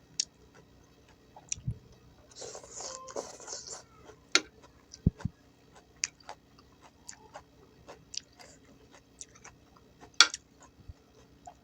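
Close-up chewing and biting of a mouthful of gado-gado, crunchy vegetables and crackers in peanut sauce: irregular sharp crunches and clicks, with a longer crunching stretch about three seconds in.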